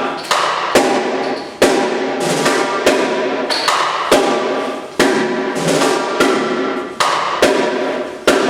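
A drum being struck in single hits during a sound check, about one stroke every three-quarters of a second, each hit ringing out and fading before the next.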